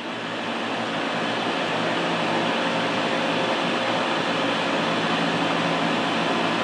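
Air conditioning unit running loudly and steadily, with a motor hum under a broad rushing noise; it comes back up to full over the first second after a brief cut-out. The unit is switching on and off over and over, a sign of short-cycling.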